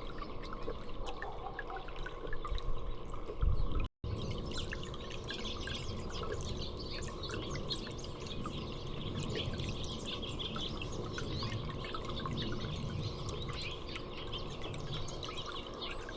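Small songbirds chirping in quick, scattered short calls over a steady drip and trickle of water. About four seconds in, a brief low rumble is followed by a moment of dead silence.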